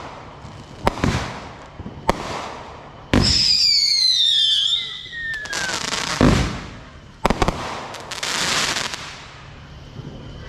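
Consumer fireworks going off: a string of sharp bangs, with a whistling firework's falling whistle for a couple of seconds after about three seconds in, then more bangs and a noisy burst near the end.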